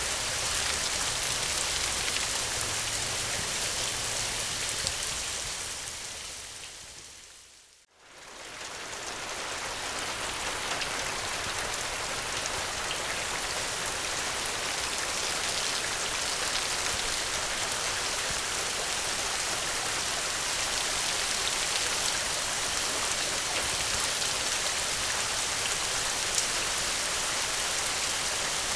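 Steady rain falling. About eight seconds in, it fades away to near silence over a couple of seconds, then quickly fades back in and goes on evenly.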